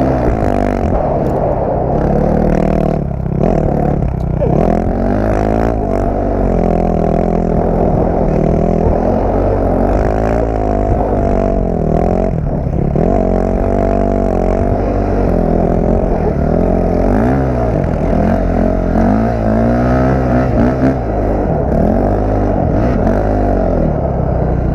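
Honda CRF dirt bike's four-stroke engine revving up and down again and again as it is ridden hard, with short drops in pitch where the throttle is chopped.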